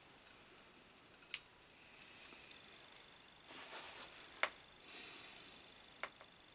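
Small bench-work handling sounds of wiring: a few sharp clicks, the loudest about a second in, with soft scraping rustles between them.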